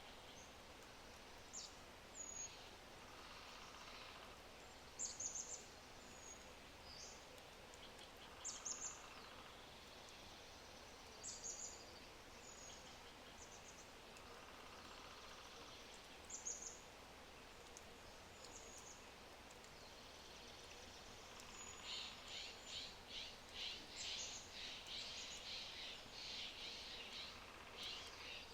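Wild birds singing in woodland: short high-pitched calls every few seconds, then near the end a fast run of repeated notes, all faint over a quiet steady background hiss.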